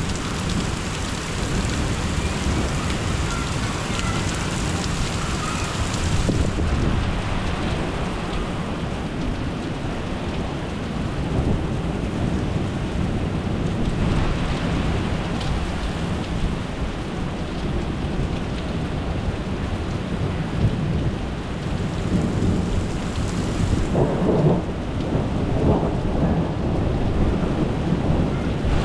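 Rain falling steadily through a thunderstorm, with low rumbling thunder underneath and a louder stretch near the end.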